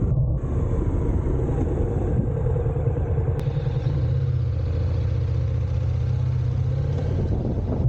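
Honda NC750X DCT's parallel-twin engine running at a steady cruise, a deep even rumble, with rushing wind noise over the microphone.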